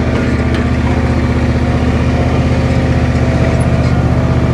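An engine running steadily at constant speed, with a fast, even pulse.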